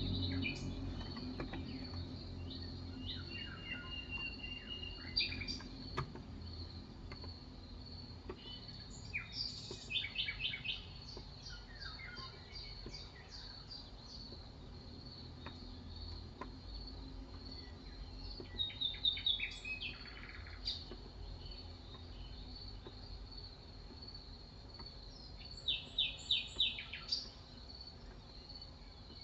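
Birds chirping in short bursts of quick repeated notes, about ten seconds in, again near 19 seconds and again near 26 seconds, over a steady high-pitched insect-like drone and a low hum.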